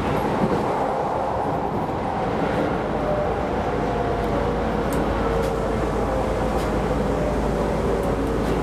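A Keisei Line electric rapid train running, heard from inside the front car: a steady rumble of wheels on rail with a motor whine whose pitch slowly falls, as the train slows.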